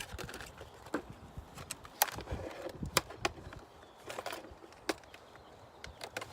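A spinnerbait lure being taken out of its retail package by hand: irregular clicks, crinkles and small knocks of packaging, the sharpest about two and three seconds in.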